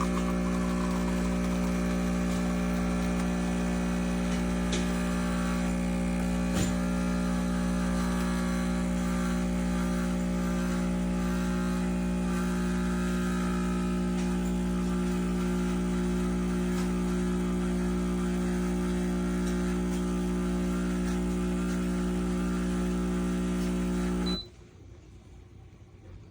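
Espresso machine's pump running with a steady buzzing hum, then cutting off abruptly near the end.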